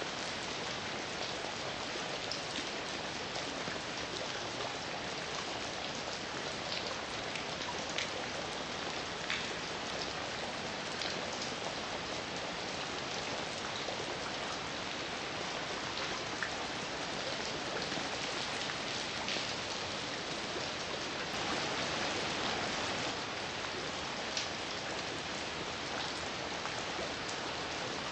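Steady heavy rain, with scattered louder drops and a brief swell of heavier rain about three quarters of the way through.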